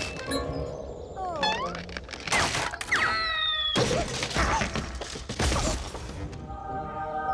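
Cartoon soundtrack: music mixed with comic sound effects. There are short sliding squeaky tones, a falling tone about three seconds in, several loud crash-like bursts, and a held chord near the end.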